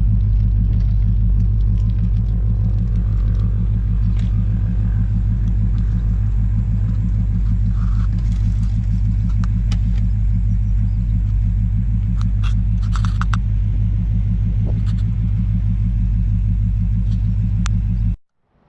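Car driving at a steady speed, heard from inside the cabin: a steady low engine and road rumble that cuts off suddenly near the end.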